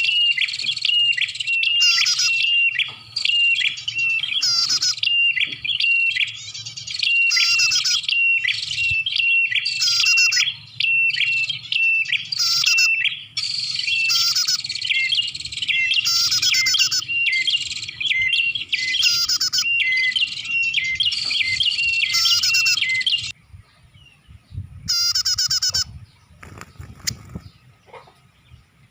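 Prenjak (prinia) calls played as a bird-trapping lure: a fast, continuous chatter of sharp, high repeated chirps and rattling trills. It stops suddenly about three quarters of the way in, gives one more short burst, then falls quiet near the end.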